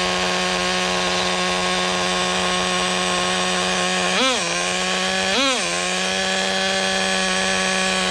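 Traxxas Nitro Rustler's small nitro engine idling steadily, with two quick throttle blips about four and five and a half seconds in.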